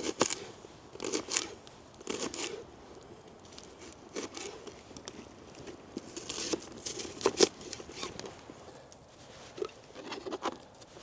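Knife cutting vegetables, irregular crunchy cuts and sharp knocks, the strongest about seven seconds in.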